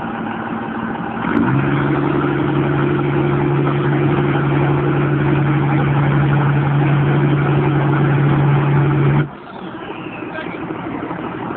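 Dodge truck's Cummins inline-six turbodiesel held at high revs: after about a second of idle the engine jumps to a steady, loud high rpm, holds it for about eight seconds, then drops suddenly back to idle near the end.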